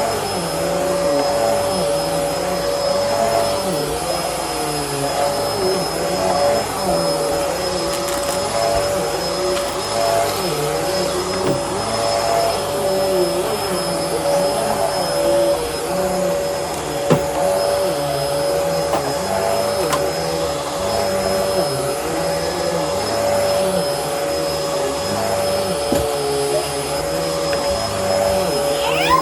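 Bissell Helix upright vacuum cleaner running steadily, its motor giving a constant whine, with the lower sound wavering up and down as it works.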